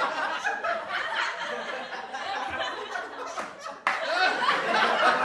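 A group of people laughing together, many voices overlapping in chuckles and giggles. About four seconds in the sound cuts abruptly to another, louder burst of group laughter.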